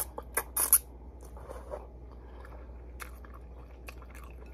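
Close-up chewing of ramen noodles: a few sharp, wet mouth noises in the first second, then only scattered soft clicks of chewing.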